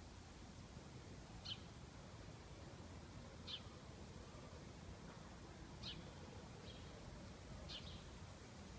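A bird calling with short, high chirps, four of them about two seconds apart, over faint background hiss.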